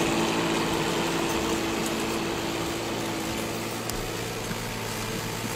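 Steady mechanical hum of a running motor, with a few held tones, over an even rushing noise that slowly fades a little.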